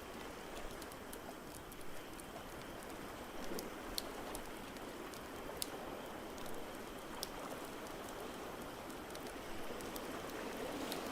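Wood fire crackling, with scattered sharp pops, over a steady rushing wash of noise.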